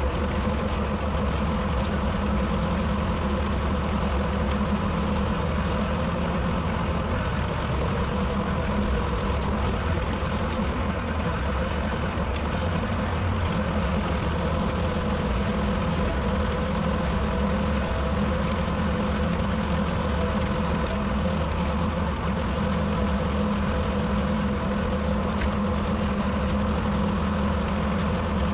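Tractor engine running steadily while bushhogging with a rotary cutter, with an even, unchanging drone throughout.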